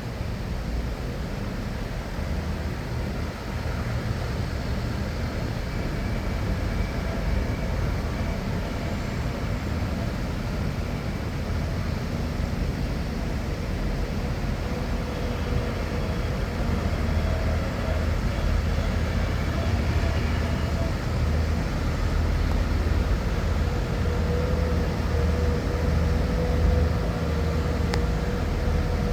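Tractor engines running steadily, a continuous low engine sound.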